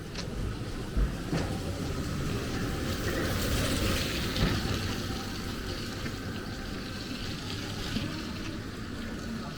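Rainy street ambience: a steady hiss of rain and wet pavement that swells in the middle, with two sharp knocks, one about a second in and another a few seconds later.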